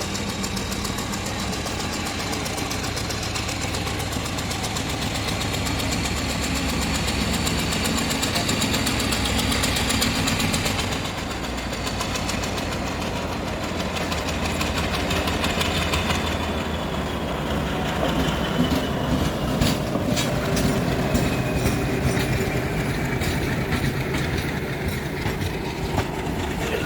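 ALCo diesel locomotive engine running steadily as a goods train rolls slowly through the station, with a high whine that rises and falls. From a little past the middle, many sharp clacks join in as the wagons' wheels pass over rail joints.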